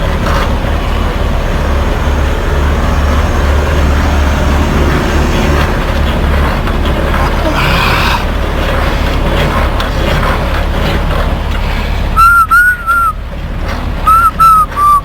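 Semi-trailer landing gear being cranked up by hand over a steady low rumble, the old gear grinding as the crank is rolled. Near the end come two quick runs of loud, short high squeaks.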